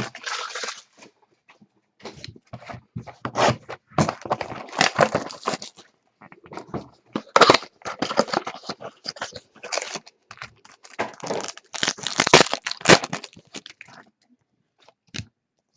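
Trading cards and their packaging being handled at close range: irregular rustling, scraping and crinkling in short bursts, with the loudest handling near the middle and shortly before the end, and only a few faint taps in the last second or so.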